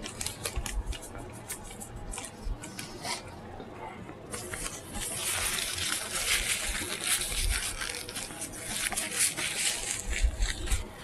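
Close-miked eating sounds: wet chewing and mouth clicks. From about four seconds in comes a longer, louder stretch of crisp, crackly noise.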